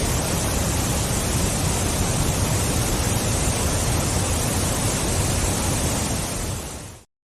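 Steady rush of a waterfall, falling water without a break, which fades out shortly before the end and gives way to silence.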